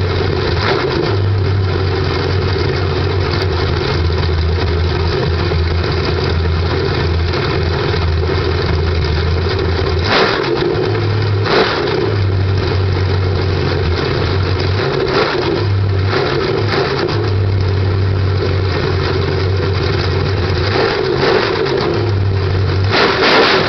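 Rebuilt 1979 Corvette L48 350 small-block V8 running on its first start-up, with short throttle blips about ten seconds in, again a second or so later, and twice near the end.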